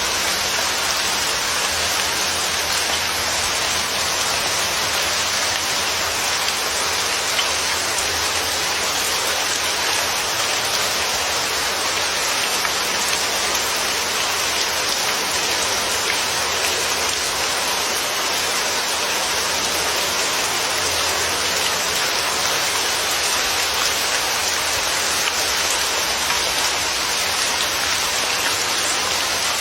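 Steady, even rain: a continuous hiss of rainfall with no distinct drops or thunder standing out.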